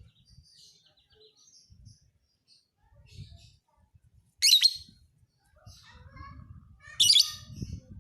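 Lovebird singing: a shrill, rapid chattering song with two loud bursts, one about halfway through and one near the end, and softer twittering between them.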